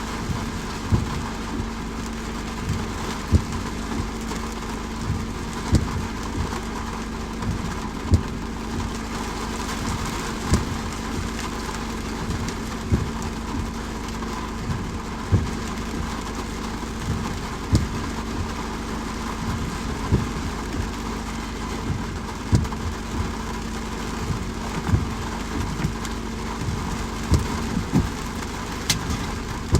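Steady rain with a low steady hum under it, broken by a soft low thump about every two and a half seconds.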